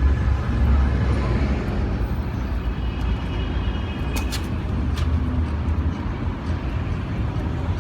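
Strong sandstorm wind buffeting the microphone: a heavy, gusting low rumble with a steady rush of air above it.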